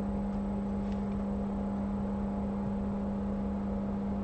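Steady electrical hum from repair-bench equipment, one low tone held constant without change.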